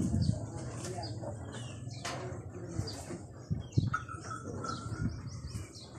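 Small birds chirping over and over, with a few dull low thumps at the start and about three and a half seconds in.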